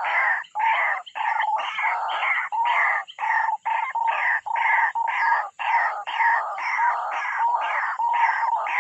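White-breasted waterhen giving its harsh 'ruak-ruak' call over and over, about two calls a second without a break.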